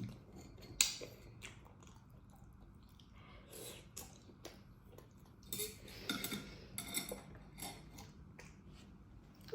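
Eating sounds from a chewy potato dish: scattered clicks of cutlery against a plate and chewing, with a sharp click about a second in and a busier run of short crackly sounds in the second half.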